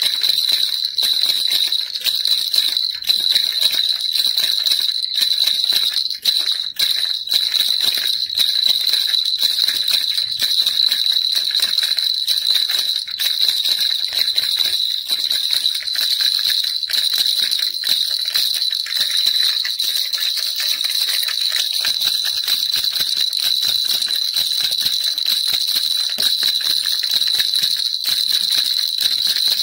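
Baby rattle shaken continuously, a dense jingling rattle of many small clicks with a bright ringing tone, steady throughout.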